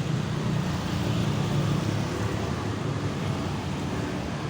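Steady rumble of road traffic, vehicle engines running without a break.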